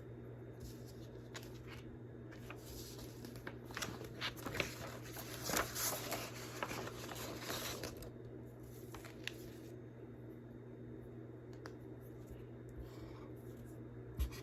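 Firewood burning in a fireplace: scattered crackles and pops over a steady low hum, with a dense run of crackling in the middle.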